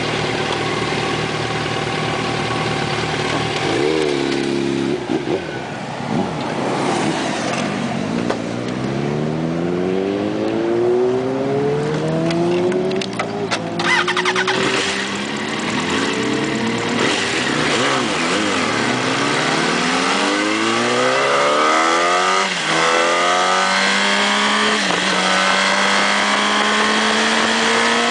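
Motorcycle engine accelerating up through the gears: its note climbs and drops back with each shift, five or six times, then settles into a steady high-revving cruise for the last few seconds.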